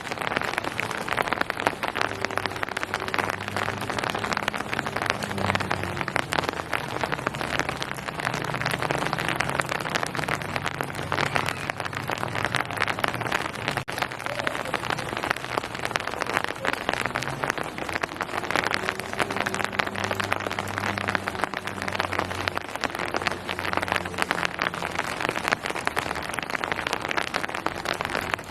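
Steady rain falling on surfaces, a dense patter of drops. A low hum rises and fades twice beneath it.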